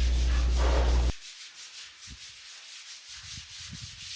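Sanding of dried spackle (massa corrida) on a fireplace wall: abrasive rubbing in repeated short back-and-forth strokes. A steady low hum cuts off about a second in, after which the strokes are quieter and stand out on their own.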